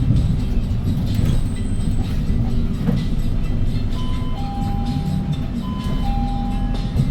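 Hyundai Green City city bus with its C6GB CNG engine running, heard from inside the bus. About four seconds in, a two-note electronic ding-dong chime, high note then lower held note, sounds twice.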